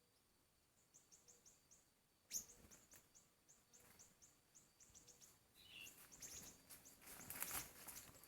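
Faint siri-siri bird call: high, thin chirps in a quick series of several a second, the call used to lure the birds to lime sticks. A single knock about two seconds in, and rustling crackles near the end.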